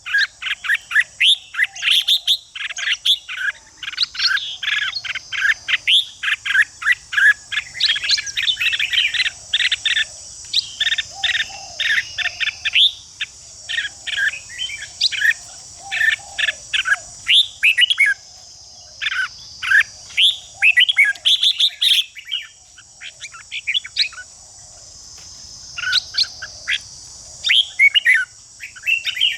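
Red-whiskered bulbuls singing and chattering in rapid runs of short, sharp notes, with a few brief lulls. A steady high insect drone runs underneath.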